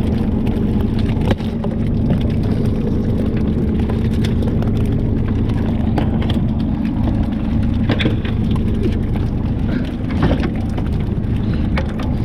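A fishing boat's engine running steadily with a low hum, with a few short knocks and clatters over it.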